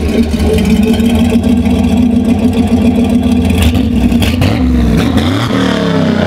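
LS V8 engine swapped into a Volvo wagon, idling loudly and evenly out of a short side-exit exhaust pipe. About five seconds in it is revved and the pitch climbs.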